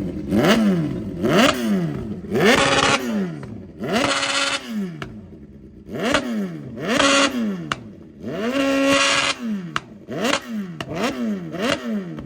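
Motorcycle engine revved hard over and over in quick throttle blips, about a dozen in all, the pitch shooting up and falling back each time. Several revs are held briefly at the top.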